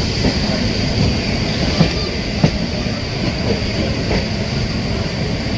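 Passenger train running along the track, heard from aboard: a steady rumble of wheels on rail with a few sharp clicks over rail joints and a faint high, steady whine.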